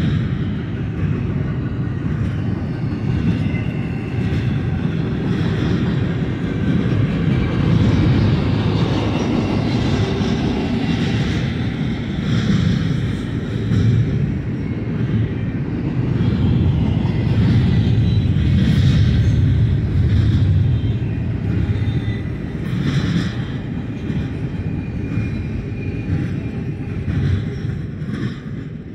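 Double-stack container well cars rolling past on the mainline: a steady rumble of steel wheels on rail, with brief higher-pitched noises coming and going. The sound fades near the end as the last car passes.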